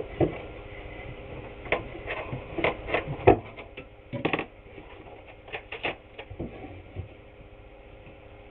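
Wooden trim boards being handled and knocked against each other and the work surface: a run of irregular knocks and taps, the loudest about three seconds in, over a steady low hum.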